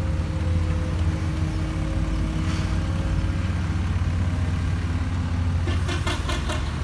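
Excavator's diesel engine running steadily, with a quick rattle of sharp clicks near the end.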